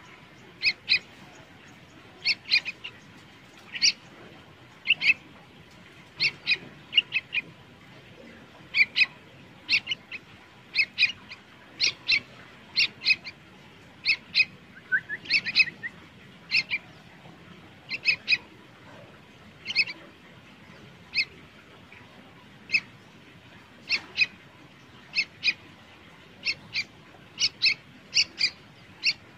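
A bird chirping: short high chirps, singly and in quick runs of two or three, about one run a second.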